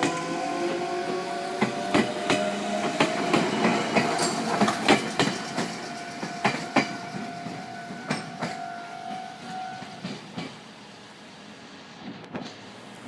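Meitetsu electric train running over the crossing, its wheels clacking irregularly over rail joints and points. A steady tone sounds alongside until about ten seconds in. Then the noise dies away.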